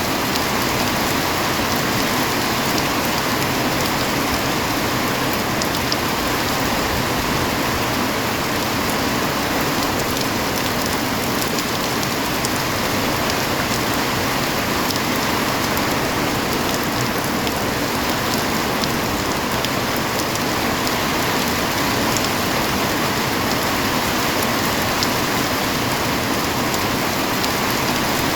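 Steady heavy rain, a dense even hiss of rainfall with faint scattered drop ticks and no thunder.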